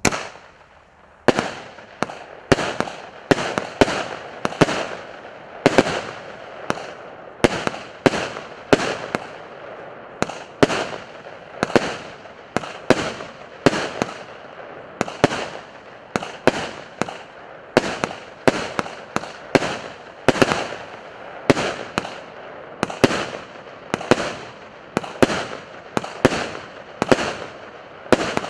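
'Ice Patterns' (Ledyanye Uzory) consumer firework cake firing its shots in a steady succession of sharp bangs, about one or two a second, with a continuous hiss between them. It starts abruptly with a bang.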